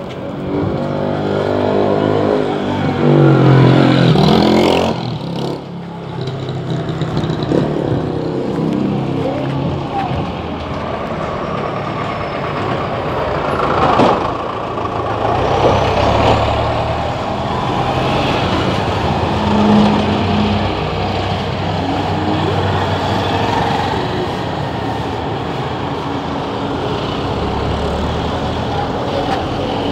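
A motor vehicle engine rising in pitch as it speeds up over the first few seconds, falling away about five seconds in, then running on steadily with road noise.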